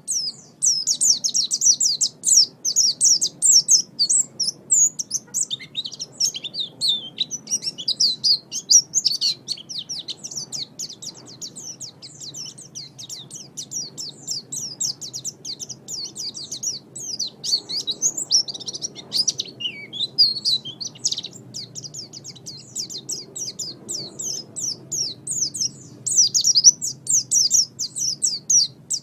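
White-eye (pleci) singing: a fast, unbroken stream of high-pitched twittering notes.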